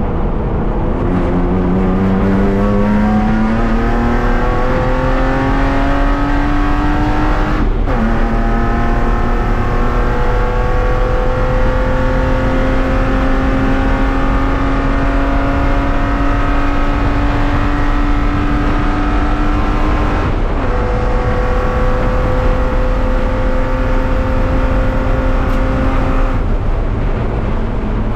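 BMW E36 race car's engine heard from inside the stripped cabin at full throttle, its pitch climbing through the revs. There is a quick break about eight seconds in as it shifts up, then a long, slow rise in pitch. There is another break around twenty seconds in, and the engine note eases off near the end.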